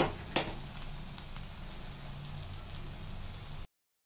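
Steady sizzling from a masala gravy cooking in an iron kadhai, with two sharp clicks less than half a second apart near the start. The sound cuts off suddenly near the end.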